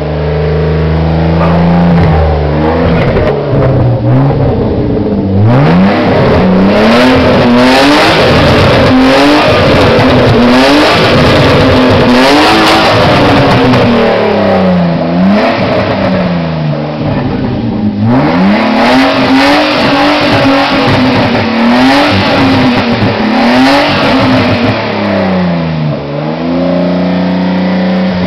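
BMW E36 engine and exhaust being revved hard in neutral once warm, to clear out carbon deposits. The revs climb quickly from idle and are held high with quick blips for several seconds. They fall back to idle about halfway through, climb again for another long spell, and settle near the end.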